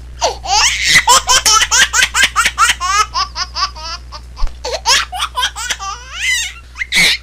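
A baby laughing hard in a quick run of short, high-pitched bursts, about three to four a second, with a louder squeal of laughter near the end.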